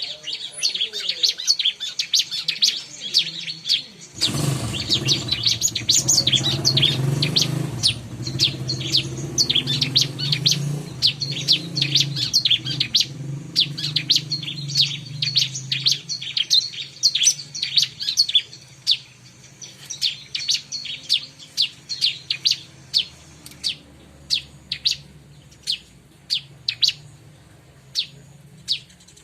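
Ciblek (bar-winged prinia) song: a fast run of sharp, high chirps that spaces out into separate notes toward the end. A low steady hum sits underneath from about four seconds in until around the middle.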